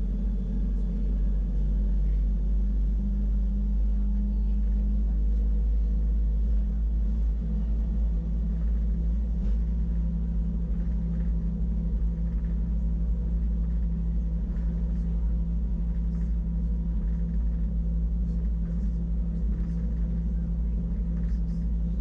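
Wengernalp Railway electric rack-railway train running steadily, heard from inside the carriage: a constant low rumble with a steady motor hum, and a few faint light ticks later on.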